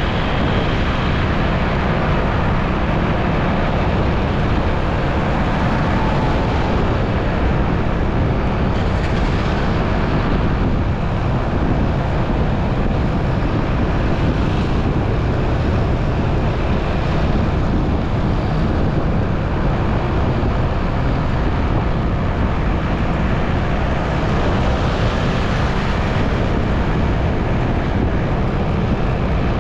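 Motorcycle on the move in road traffic: a steady rush of wind on the microphone over the engine and road noise.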